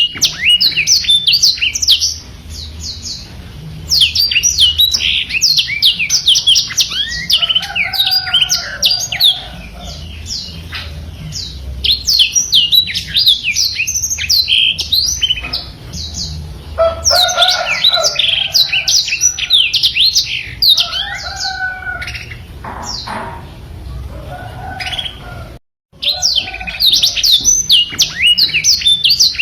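Black-throated canary (the 'blackthroat' of Indonesian bird keepers) singing a long, rapid twittering song of quick down-slurred notes, in bursts with short quieter spells. The sound cuts out for a split second near the end, then the song resumes.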